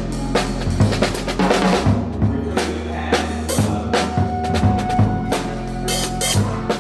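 A band playing live: a drum kit with regular bass drum and snare hits over sustained low bass notes. A held higher note joins a few seconds in and drops out near the end.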